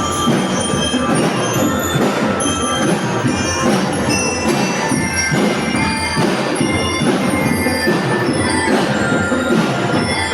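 Parade band music, steady and loud throughout, with ringing bell-like mallet notes struck over percussion.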